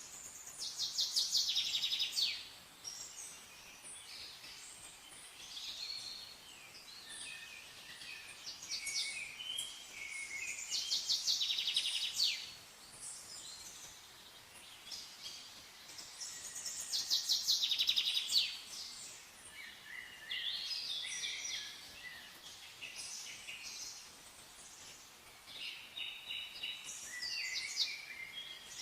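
Songbirds singing: a fast, high trilled phrase comes three times, with shorter chirps and calls between, over a faint steady hiss.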